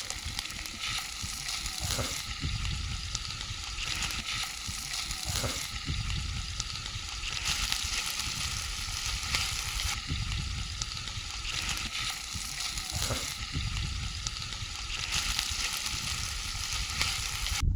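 Campfire crackling steadily, a dense run of small pops and snaps over a constant hiss.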